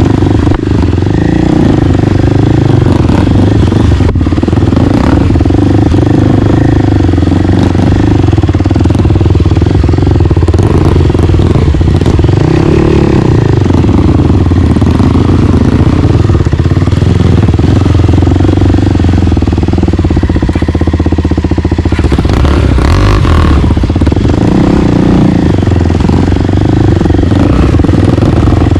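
Single-cylinder four-stroke trail motorcycle engine running steadily under way, loud and close to the microphone.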